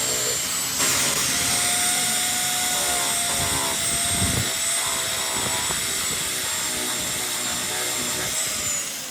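A high-speed power tool, such as a grinder used to buff tyre rubber, running with a steady high whine that drops in pitch near the end as it slows.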